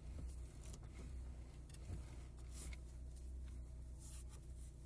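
Lada Granta's electric power steering unit giving occasional faint knocks and crunches, several short clicks spread unevenly, over a steady low hum. The knock is heard only now and then; the owner suspects metal striking metal inside the steering unit.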